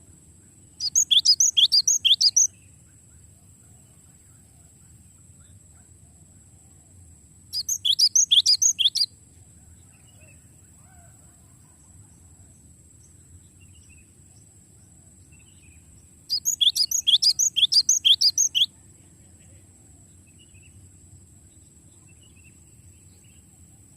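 Cinereous tit (gelatik batu) singing its rolling song: three phrases of rapidly repeated high notes, about five a second, each lasting one and a half to two seconds, several seconds apart.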